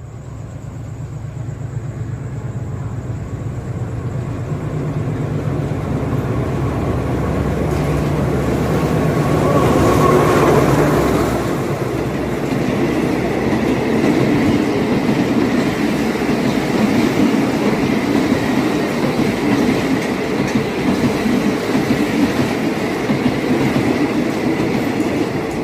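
Diesel-hauled train passing close by on the State Railway of Thailand: the locomotive's engine drone builds to its loudest about ten seconds in, then gives way to the steady clatter of the carriages' wheels over the rail joints.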